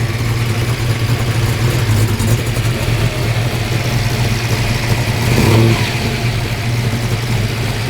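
Muscle car engine idling steadily, rising briefly about five and a half seconds in as the throttle is blipped.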